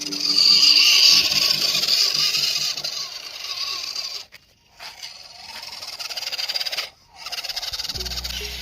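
Radio-controlled scale truck driving off-road, its small electric motor and gears running with a noisy hiss mixed with rough-ground noise. The sound cuts out briefly twice.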